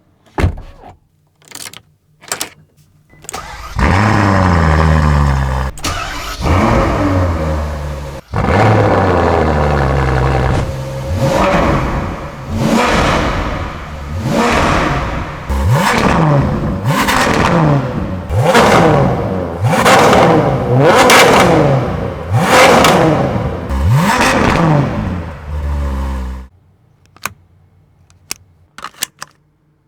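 A few clicks, then the 2017 Ferrari F12tdf's V12 starts with a loud flare and settles into a fast idle. It then free-revs in a series of about a dozen quick blips, each rising and falling, before cutting off suddenly near the end.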